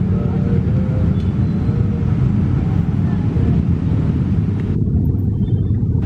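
Train passing close by at speed: a loud, steady low rumble.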